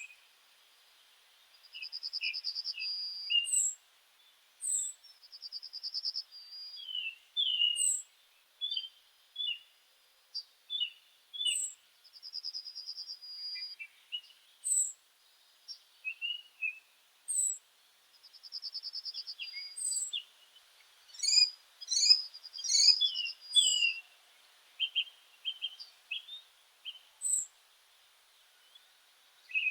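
Several meadow birds singing and calling together: a trilled phrase repeated every four to six seconds, short high chirps every second or two, and assorted quick lower chirps. A little past the middle comes a run of sharp ticks.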